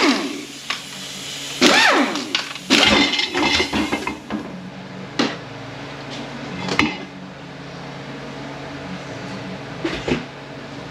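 A handheld power tool spinning bolts out of an automatic transmission's oil pump in several short runs, each a rising and falling whine, followed by a few sharp metallic clinks as parts are set down.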